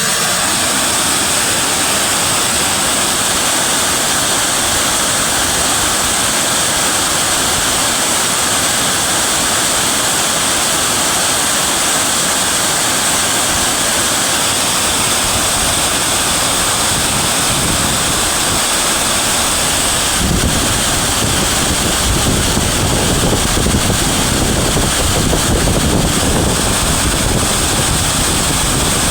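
Steady rush of river water, high in the rainy season. From about two-thirds of the way through, low rumbling wind buffets the microphone.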